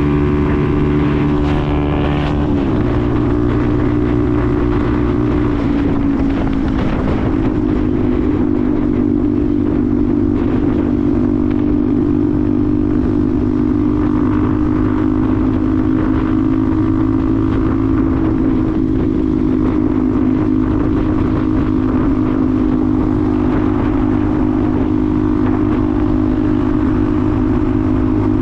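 Benelli TNT 125's single-cylinder 125cc four-stroke engine running under way. The revs drop about two and a half seconds in, climb back over the next few seconds, then hold steady at cruising speed.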